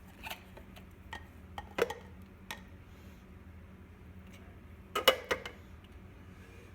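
Sharp clicks and knocks of plastic juicer parts being handled as a slow masticating juicer is taken apart to free jammed vegetable pieces. There are a few scattered clicks, then a louder cluster of knocks about five seconds in, over a faint steady hum.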